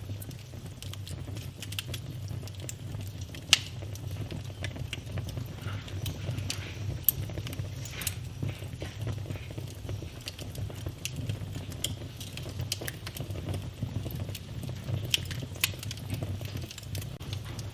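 Wood fire burning in a fireplace: a steady low rumble of the flames with irregular crackling, and two louder pops a few seconds apart.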